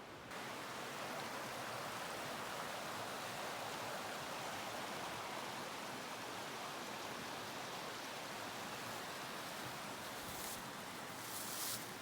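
Steady rush of a mountain stream's running water, with a few brief rustles near the end.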